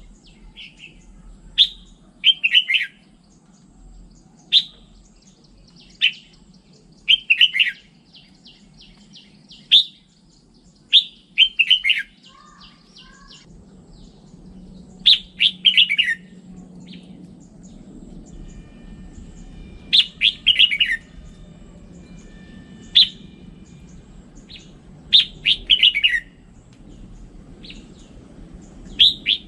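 Red-whiskered bulbul singing: short, bright whistled phrases repeated every second or two, many as quick runs of three or four notes, over a faint low hum.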